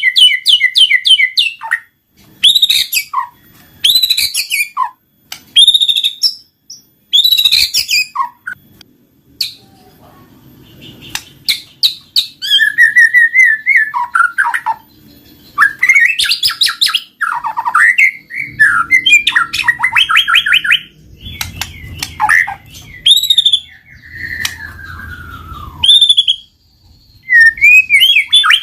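White-rumped shama singing in loud, varied phrases of clear whistles, trills and rapid chattering notes, separated by short pauses, with one long falling whistle about two-thirds of the way through.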